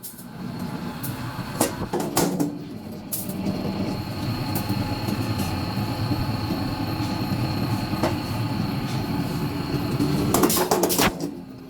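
Hydraulic metal press running with a steady low hum and a thin high whine, punctuated by sharp metal clanks: a few in the first three seconds, one near the middle and a cluster near the end.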